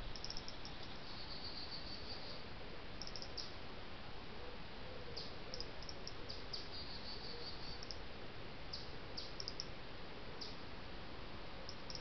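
Small birds calling at dusk: scattered short high chirps and a couple of brief trills, over a steady hiss.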